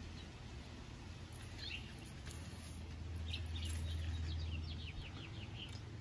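A small bird chirping: a couple of short chirps about two seconds in, then a quick run of about a dozen short rising chirps in the second half, over a low steady rumble.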